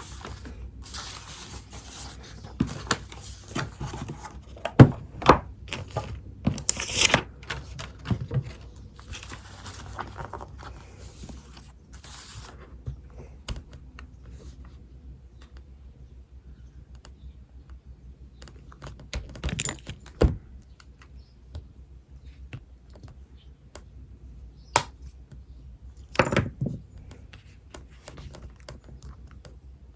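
Writing on paper: a steady run of scratchy strokes and small taps for about the first twelve seconds, then quieter, with a few isolated knocks against the desk.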